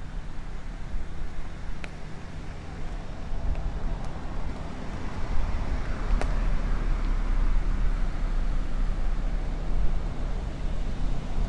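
Wind rumbling on the microphone of a moving electric unicycle, with a car passing: its road noise swells and fades around the middle.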